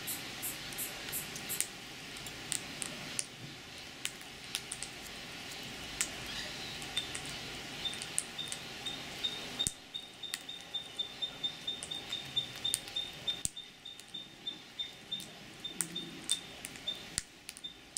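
A bird pecking at food offered by hand: irregular sharp clicks of its beak. From about seven seconds in, a faint rapid series of high pips runs alongside.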